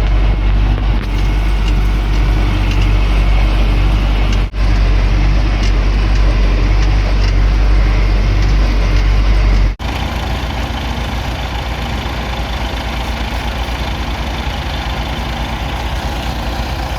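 Tractor engine running steadily, in three joined takes that cut abruptly about four and a half seconds in and again near ten seconds in; the last take is quieter, with an even low throb.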